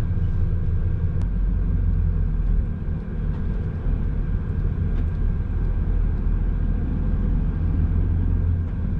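Semi-truck's diesel engine and road noise heard from inside the cab while driving: a steady low drone with a faint steady high tone over it, easing briefly about three seconds in.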